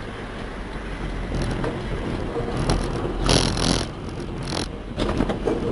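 Heavy diesel machinery running with a steady low rumble. A louder hissing burst comes about three seconds in, and a shorter one follows a second later.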